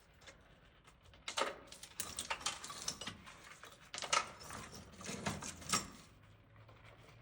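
A cracked geode being pulled apart by hand, with hard rock pieces clicking and knocking together in an irregular string of sharp clicks over several seconds.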